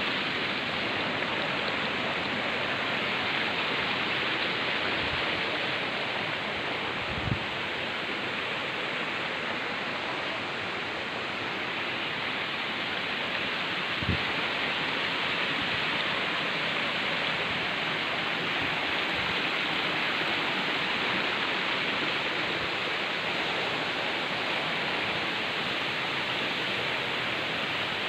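River water rushing steadily through a forest, an even noise of flowing water. Two brief low thumps stand out, about seven seconds apart.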